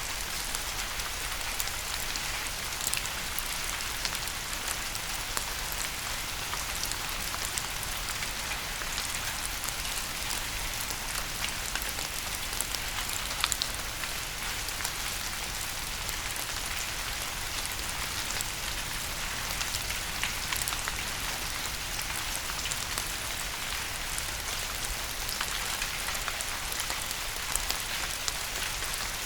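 Steady rain falling, a dense hiss of many fine drops striking a hard surface, with scattered louder individual drop taps.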